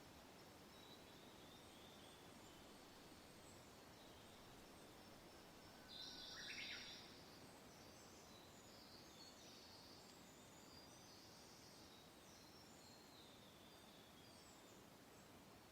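Soft, steady wind with faint birdsong: scattered high chirps throughout and one louder bird call about six seconds in.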